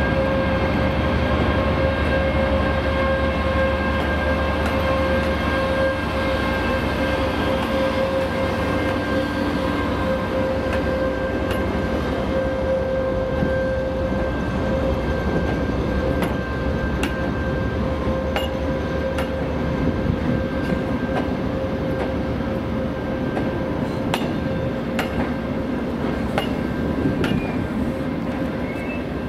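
TEP70BS diesel locomotive hauling an ES2GP Lastochka trainset slowly past a platform: the locomotive runs with a steady whine that fades in the second half, then the carriages roll by with sharp clicks of the wheels over rail joints.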